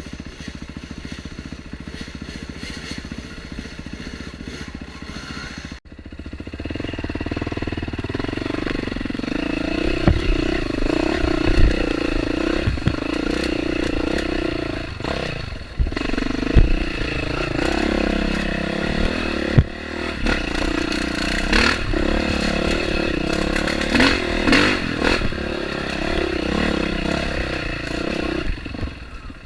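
Dirt bike engine running on a trail ride, quieter for the first six seconds, then louder after a sudden break, its pitch rising and falling with the throttle. Several sharp knocks come through along the way.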